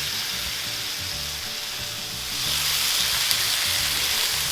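Marinated pork and chicken sizzling as they fry in a hot pan, a steady hiss that swells louder about halfway through, with one small tick near the end.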